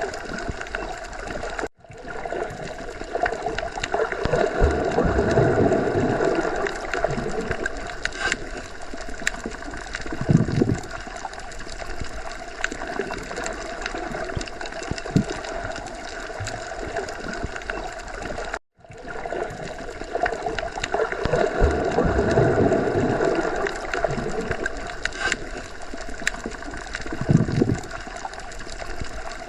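Underwater sea ambience: a steady gurgling, bubbling water texture with slow low swells and an occasional deeper thud. The recording loops about every 17 seconds, with a short dropout at each loop point, twice.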